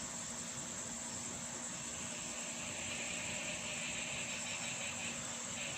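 A chorus of frogs calling steadily, a dense high-pitched trilling that grows a little fuller about halfway through.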